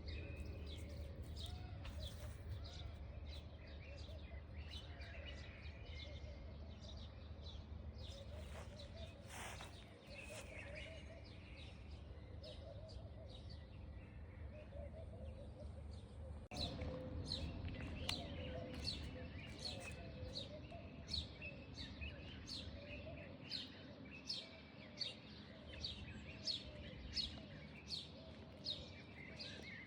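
Birds chirping outdoors over a low steady hum; in the second half one bird repeats a short, high, falling chirp roughly once a second.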